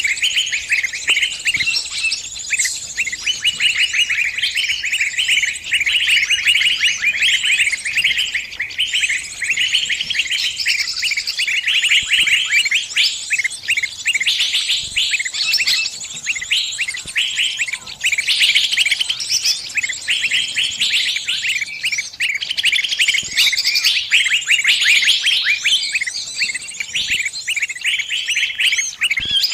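Small birds chirping in a dense, unbroken stream of rapid high calls that overlap one another: the distress calls of a trapped bird, with other birds answering.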